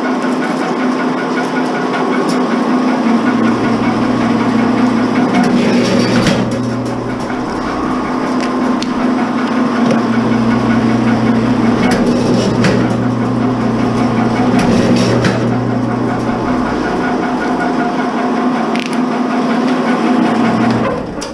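Motor-driven wire-stripping machine running steadily while BX cable is fed through its rollers, with cracking and crunching as the cable is cut. The motor stops abruptly near the end.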